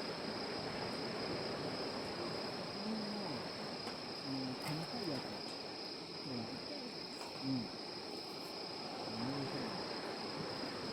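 Crickets trilling steadily in one continuous high chorus, over a soft background hiss, with a few faint pops from a campfire and faint distant voices.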